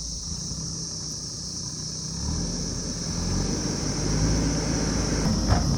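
JCB backhoe loader's diesel engine running, getting louder from about two seconds in, with a steady high hiss above it and a few short knocks near the end.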